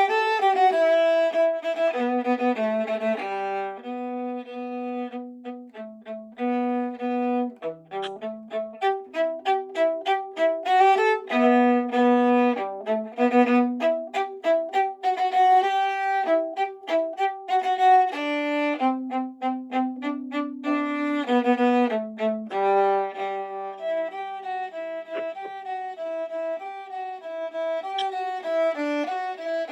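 Violin playing a lively fiddle tune a tempo, in quick, short bowed notes with several notes often sounding together, as when a violin plays along with a recording of the tune.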